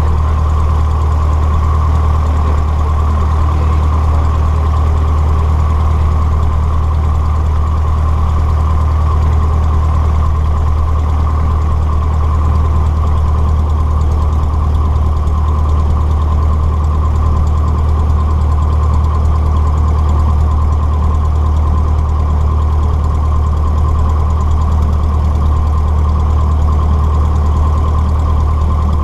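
Cessna 150's four-cylinder Continental O-200 engine and propeller running steadily, heard from inside the cockpit as a constant low drone.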